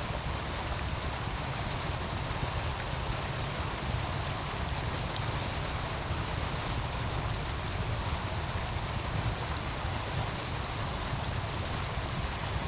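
Wood fire crackling with scattered small pops over the steady rushing and splashing of a meltwater stream, with a low rumble of wind underneath.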